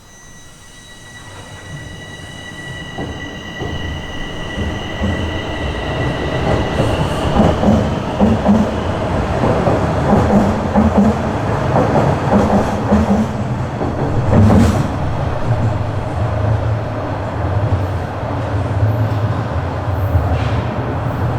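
Bombardier Toronto Rocket subway train running on the Sheppard line, growing steadily louder over the first seven seconds and then holding a steady running noise of wheels on rail.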